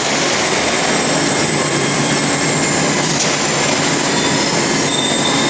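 Steady industrial machinery noise, a dense even rush with a faint thin high whine on top.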